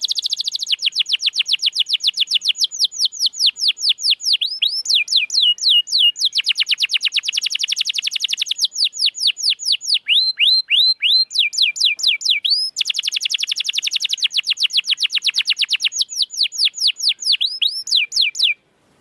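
Domestic canary singing fast rolling trills: rapid runs of repeated down-slurred whistled notes in phrases that speed up and slow down. The song stops abruptly near the end.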